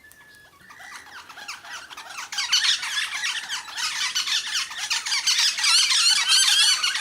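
A flock of feeding birds squeaking and screeching in a dense, overlapping chatter of high, quick calls, building from a few calls about a second in to a loud, continuous racket from about two and a half seconds.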